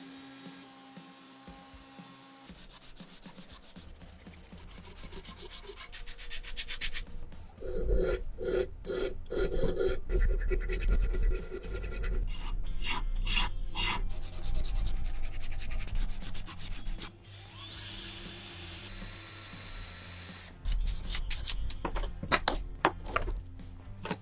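Hand tools rubbing, scraping and filing on pistol parts in a series of short takes, with a run of quick back-and-forth strokes near the middle.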